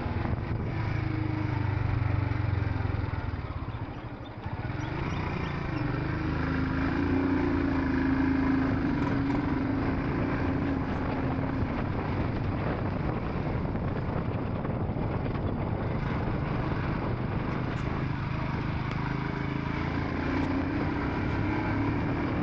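Royal Enfield Scram 440 single-cylinder engine running while the motorcycle is ridden, heard from the rider's position. The sound dips briefly about four seconds in, then picks up and holds steady.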